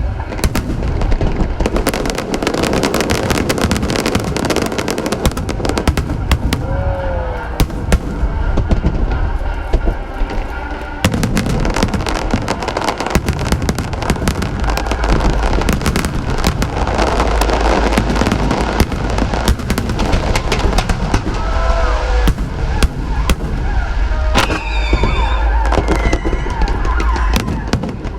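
Aerial fireworks display going off in rapid succession: dense bangs and crackling with deep booming from the shells, and music playing underneath.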